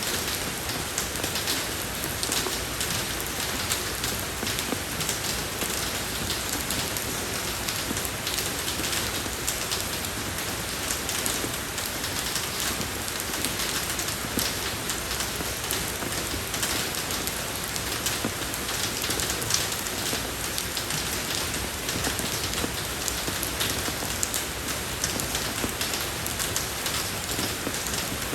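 Steady rain falling on a road surface, a dense even patter of many separate drops.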